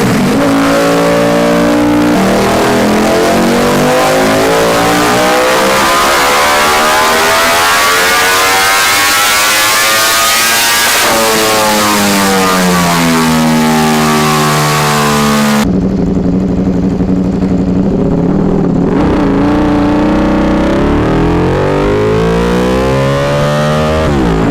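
Ducati Desmosedici RR's V4 engine revving hard. Its pitch climbs through most of the first ten seconds, drops suddenly, then falls away. After an abrupt cut to a duller recording, it revs up again near the end.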